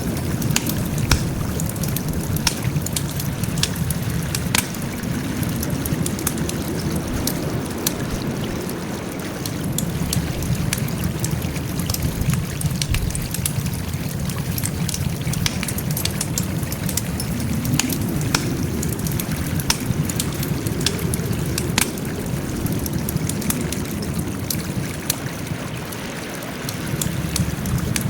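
Wood fire crackling: many sharp pops and snaps scattered over a steady low rushing of the burning wood.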